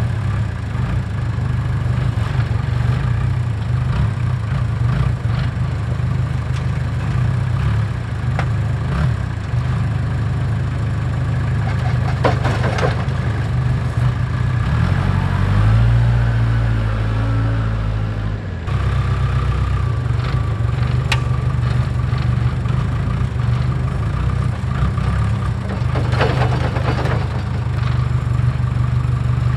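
Diesel engine of a farm tractor or backhoe running steadily under way, with a couple of short rattles. The pitch of the engine changes for a few seconds past the middle.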